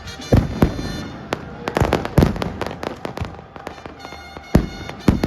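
Fireworks going off: a rapid run of sharp bangs and crackles, the loudest about half a second in, around two seconds in and near the end, over a steady pitched tone.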